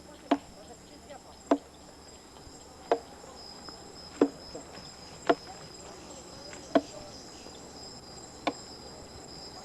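Seven sharp chopping blows into the trunk of a sago palm being felled, one about every second and a half, over a steady high-pitched insect chorus.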